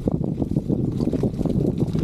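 Wind buffeting the microphone over a low, uneven rumble, the noise of a camera carried along on the move.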